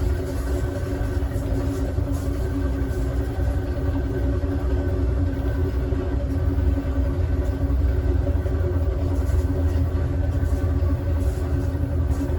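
Steady rumble and hum of the Southwest Chief's rear passenger car running along the track, heard from inside the car.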